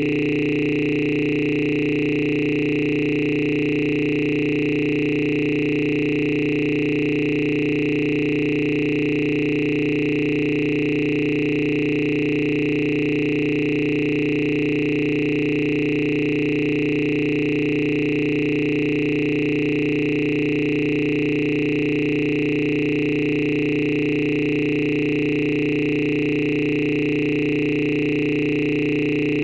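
A steady electronic drone of several held tones, unchanging in pitch and loudness throughout.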